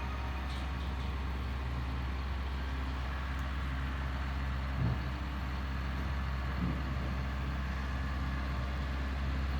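A steady low engine hum, with two brief knocks about five and nearly seven seconds in.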